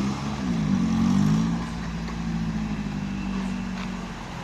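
Maruti Gypsy's four-cylinder petrol engine, heard through a custom valvetronic performance exhaust: one rev rises and falls about half a second in, then the engine settles to a steady idle.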